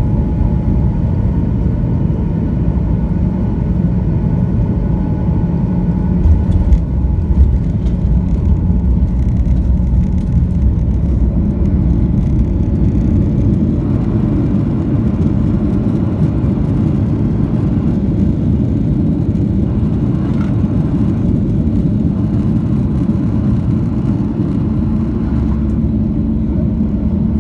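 Boeing 737-900ER with its CFM56-7B engines running: a loud, steady rumble with a thin steady whine that fades out about ten seconds in.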